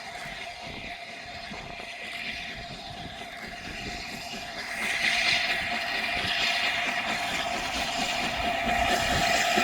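Peppercorn Class A1 three-cylinder steam locomotive approaching along the line, growing steadily louder, with a hissing rush that swells about halfway through.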